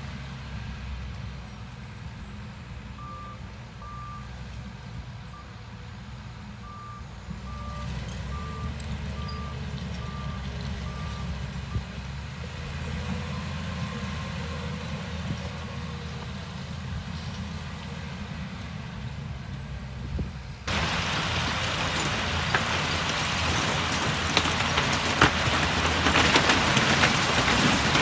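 Heavy diesel earthmoving machinery running with a steady low rumble, while a reversing alarm beeps repeatedly for several seconds. About three quarters of the way through, the sound suddenly turns louder and noisier, full of clattering clicks.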